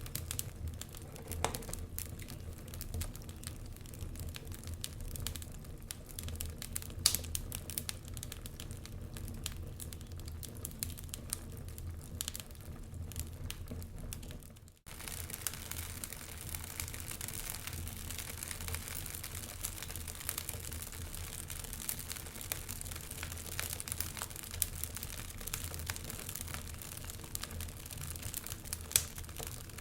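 Wood fire crackling, with frequent sharp pops over a low steady rumble and hiss. About halfway through the sound briefly drops out, then the fire resumes with a brighter hiss.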